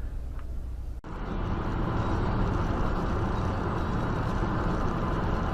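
Steady vehicle and road noise, the rumble of a moving car. About a second in there is an abrupt cut to a louder, steadier rumble.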